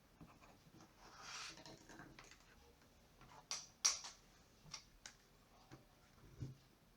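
Scattered small clicks and taps of hard objects being handled, with a brief scrape about a second in; the sharpest clicks come a little past the middle.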